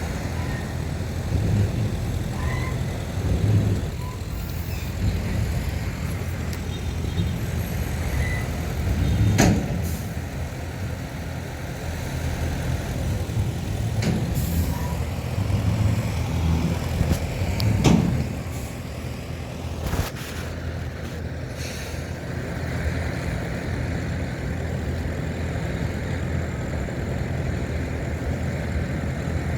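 Diesel engines of heavy earthmoving machinery, a bulldozer and dump trucks, running steadily with a low rumble. A few sharp knocks break through, the loudest about nine and eighteen seconds in.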